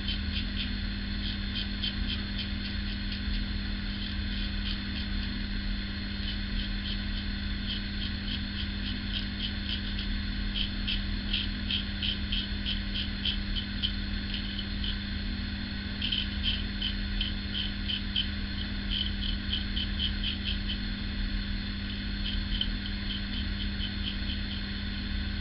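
Single-edge safety razor (Ever Ready 1924 with a GEM blade) cutting through lathered stubble: runs of rapid, crisp ticking as each stroke shears the whiskers, over a steady low hum.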